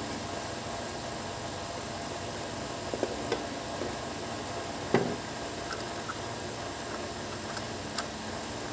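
Steady hiss with a faint hum, broken by a few light clicks and one sharper knock about five seconds in.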